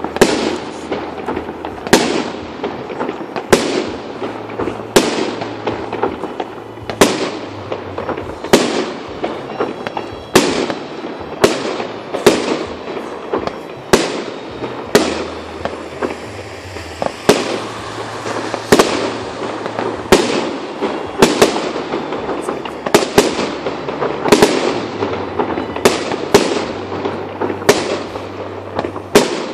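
Fireworks display: aerial shells bursting in a steady barrage, a sharp bang every second or so, with continuous crackling and rumble between the bangs.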